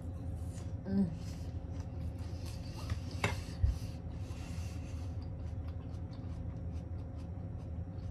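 Someone chewing a crisp apple slice with crunchy peanut butter: faint short crunches, thicker from about five seconds in, over a steady low hum. There is a brief vocal 'mm' about a second in and a single thump near the middle.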